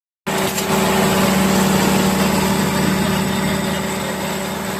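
Diesel engine of a Case 752 double drum roller running steadily at idle.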